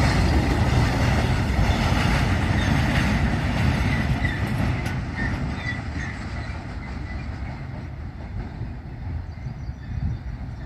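Train rolling past on the track, a dense rumbling that fades steadily over the second half as it moves away.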